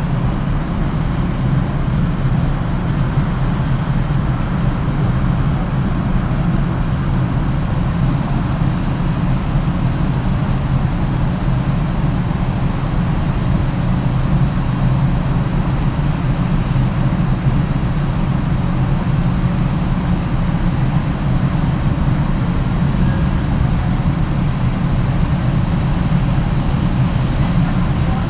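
Steady, loud low rumble of a large ferry's engines and machinery while the ship docks, unchanging throughout.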